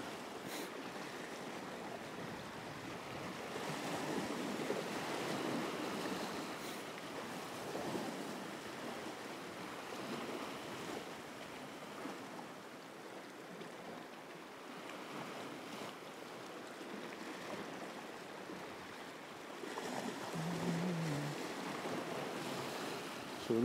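Sea waves washing against shore rocks, a steady wash that swells and eases every few seconds.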